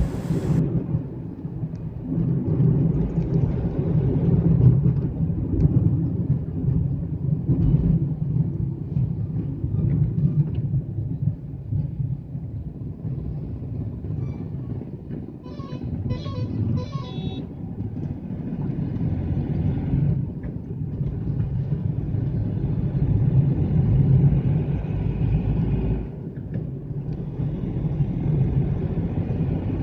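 Hyundai Xcent driving in traffic: steady low engine and road rumble. About halfway through, a horn sounds in a quick run of short toots.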